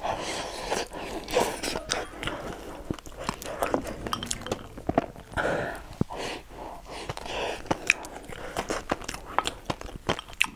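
A person chewing and biting food close to the microphone: irregular wet chewing with many small clicks and smacks of the mouth.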